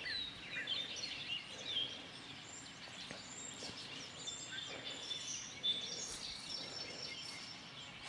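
Faint songbirds chirping and calling, many short high chirps and whistles overlapping throughout, over quiet outdoor background.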